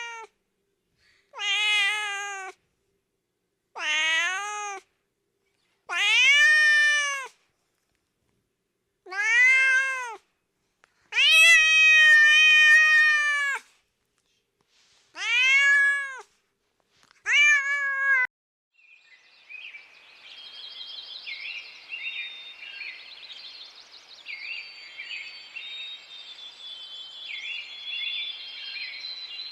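Domestic cat meowing about eight times, each meow about a second long and rising then falling in pitch. Roughly two-thirds of the way in the meows stop and a quieter, high-pitched chirping sound takes over.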